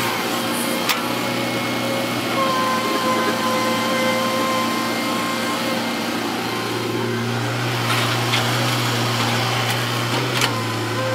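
Diesel engine of heavy earthmoving machinery running steadily, with a few sharp knocks, about a second in and again near the end.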